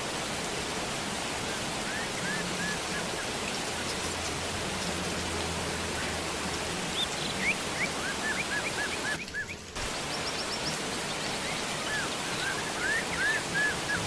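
Steady rain falling with an even hiss, while birds give short runs of quick chirps a few times. The rain briefly drops away for about half a second around nine seconds in.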